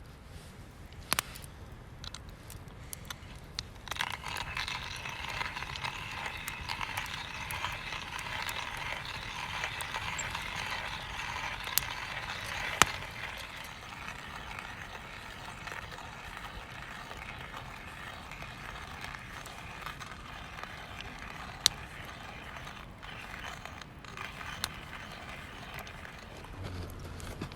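Ham sizzling in a hot pan over a campfire: a steady hiss that starts suddenly about four seconds in and eases off after about thirteen seconds, with scattered sharp crackles and clicks.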